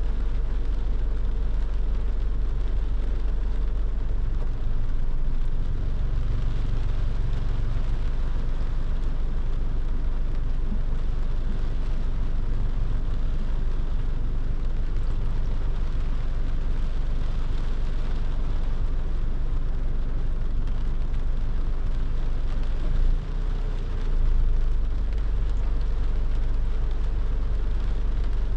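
A car driving on a wet road in the rain: a steady low rumble of engine and road with an even hiss of tyres on wet tarmac and rain. The loudness briefly dips and jumps once near the end.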